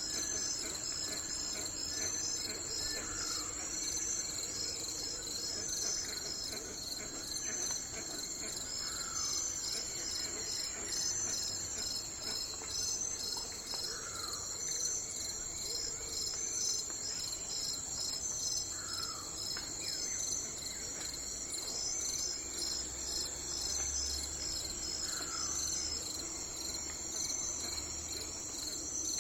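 Steady chorus of crickets trilling, high-pitched and finely pulsing. A bird gives a short, falling call about every five seconds over it.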